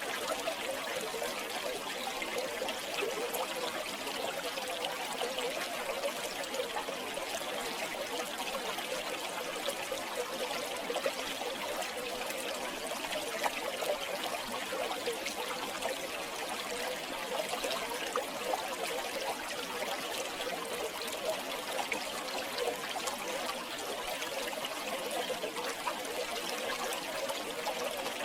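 River water flowing steadily, a continuous trickling, babbling rush with a constant level throughout.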